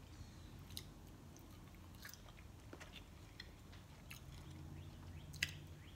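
A person quietly chewing fast food, with faint scattered mouth clicks and one sharper click near the end.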